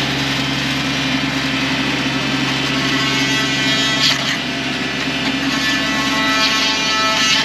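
Diesel engine of a compact digging machine fitted with a post-hole auger, running steadily at a constant pitch.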